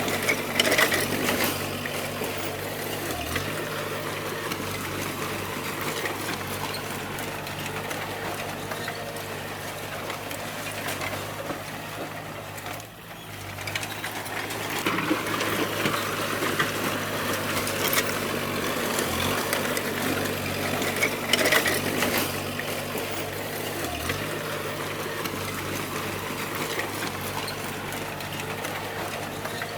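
D20 bulldozer's diesel engine running steadily, with rattling and occasional metallic clanks from the machine at work. The sound drops briefly about thirteen seconds in, then picks up again.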